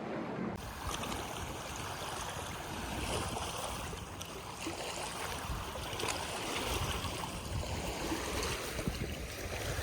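Wind gusting over the microphone, with a steady rushing noise and no clear events.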